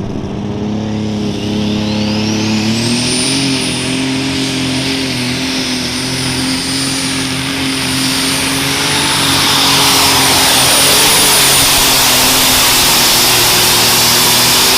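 Light super stock pulling tractor's alcohol-burning, turbocharged engine under full load on a sled pull. The engine note steps up about two seconds in while a high turbo whistle climbs and then holds steady, and the engine grows louder about ten seconds in.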